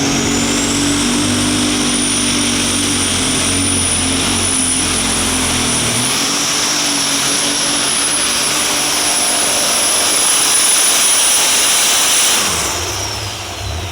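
Super stock pulling tractor's turbocharged engine at full power dragging the sled down the track, a shrill turbo whine climbing in the first couple of seconds and holding over the engine's roar. About twelve seconds in the whine falls away and the sound drops as the throttle comes off at the end of the pull.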